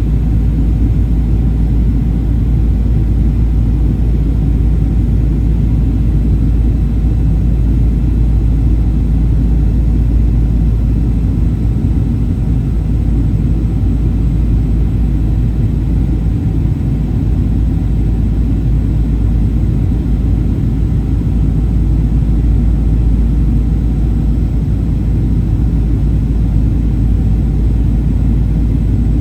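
Steady cabin rumble inside a Boeing 737-800 from its CFM56-7B jet engines and the airflow over the fuselage, loud and low with no sudden changes.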